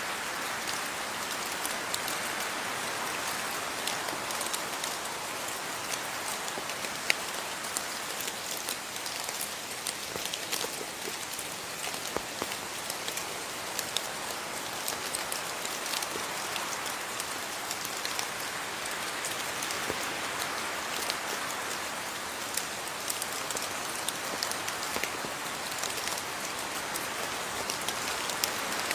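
Steady rain falling, with many individual drops ticking and a few louder, close drip hits.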